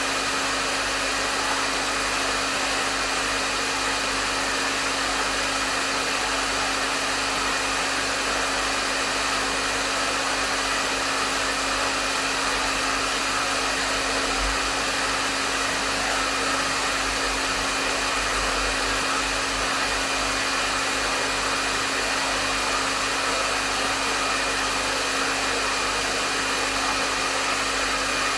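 Hair dryer running steadily at medium setting: a constant rush of blown air over a steady motor hum, with no changes.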